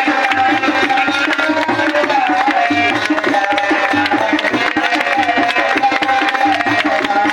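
Devotional Hindu aarti music: a held, gently wavering melody over a steady tabla and drum beat.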